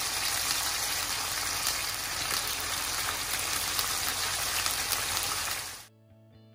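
Chicken escalopes frying in hot olive oil in a pan, a steady sizzle that cuts off suddenly near the end, leaving quiet background music.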